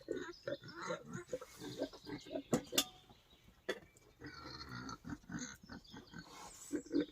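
Wild boar grunting repeatedly in short, low grunts. A couple of sharp snaps come about two and a half seconds in.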